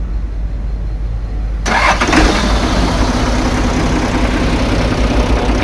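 TCM 5-ton forklift's engine starting about two seconds in, then running steadily at idle. It catches straight away after the corroded battery terminals have been replaced, which cures its hard starting.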